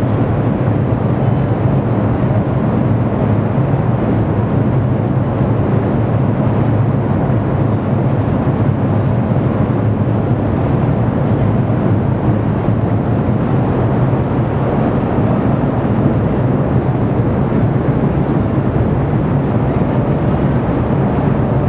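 Ruptured underground steam pipe venting steam out of the street: a loud, steady rumbling.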